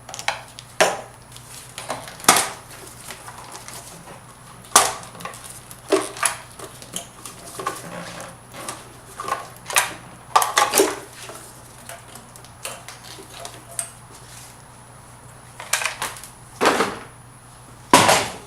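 Irregular knocks, clicks and clatters of the upper intake piece and its hoses being handled and worked loose in the engine bay, over a low steady hum.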